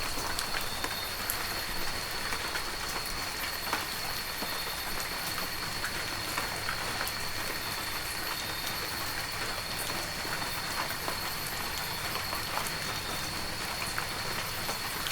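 Heavy rain falling steadily, with many single drops ticking sharply on surfaces through the hiss. A steady high-pitched tone runs underneath.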